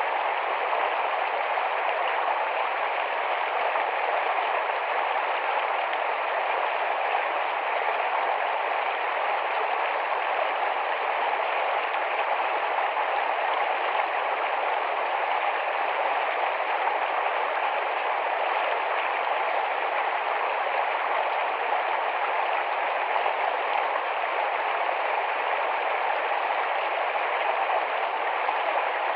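Rapid, shallow forest stream flowing: a steady rush of running water.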